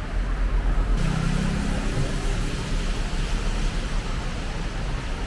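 Road traffic on a city street: a vehicle engine hum that grows louder about a second in, over a steady hiss of road noise.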